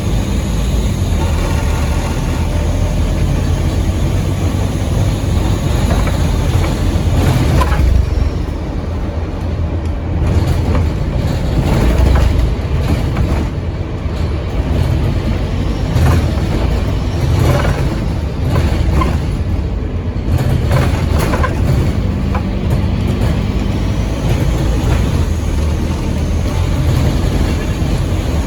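Engine and turbocharger of a Scania N230UD OmniCity double-decker bus, heard from on board while it drives, with a steady low rumble and a turbo whine that rises and falls near the start and again near the end. Short knocks and rattles from the bus body come through in the middle.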